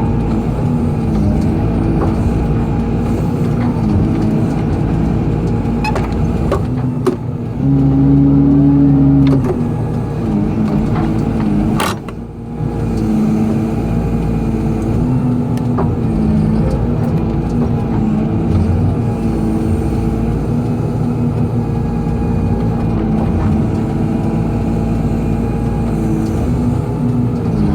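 Excavator's diesel engine running steadily as the machine works. It gets louder with a strong steady tone for about two seconds, starting around eight seconds in, and a sharp click comes around twelve seconds in.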